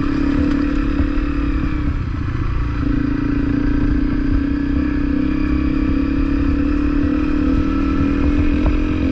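Honda CRF250L single-cylinder trail bike engine running steadily under way. The engine note dips briefly about two seconds in, then returns to the same steady pitch.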